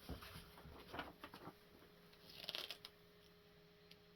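Quiet handling noises from unboxing a toy tank's parts and packaging: a few light clicks and taps in the first second and a half, then a brief rustle about two and a half seconds in.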